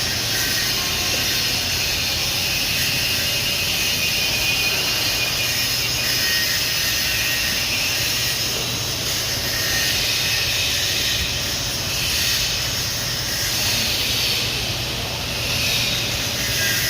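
Stick (shielded metal arc) welding: the electrode's arc sizzling in a steady hiss, with a low hum underneath.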